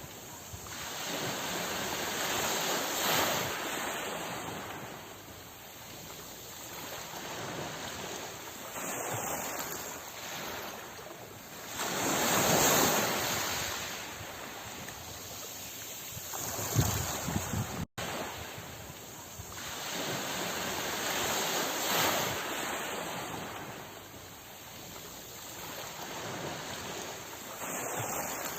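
Sea waves washing in and breaking, the surf swelling and easing in slow surges, loudest about twelve seconds in. The recording is a loop: it drops out for an instant about eighteen seconds in and starts over.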